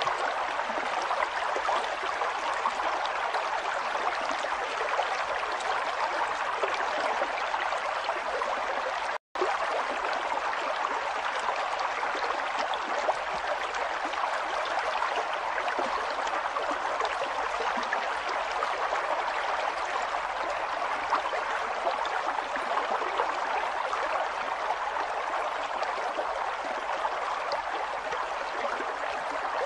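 River water flowing steadily over rocks, a continuous rushing and gurgling. The sound drops out completely for an instant about nine seconds in.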